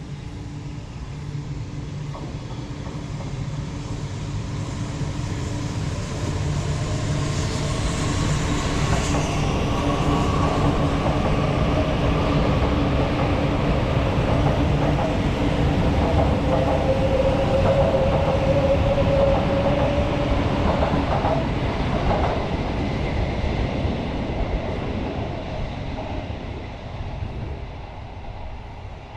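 Shinkansen bullet train moving past on the line, swelling over about ten seconds and then fading. A dense rumble carries a slowly rising whine, and a few sharp clicks come near the loudest part.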